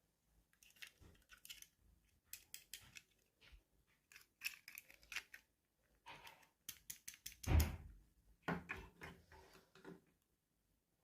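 Scissors snipping at toy packaging in clusters of short crisp clicks, with a louder knock about seven and a half seconds in.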